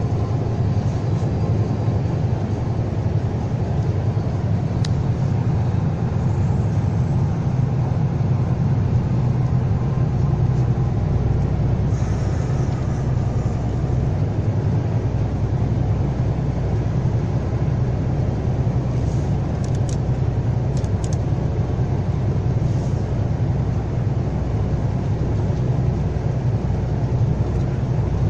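Semi-truck's diesel engine droning steadily under load with tyre and road noise, heard inside the cab while climbing a grade.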